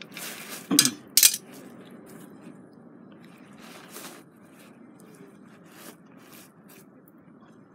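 Two sharp metal clinks, close together, about a second in, then scattered faint clicks and light rustling.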